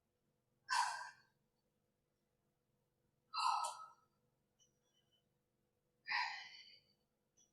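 Three hard exhalations about two and a half seconds apart: a woman breathing out forcefully with the effort of a cardio exercise.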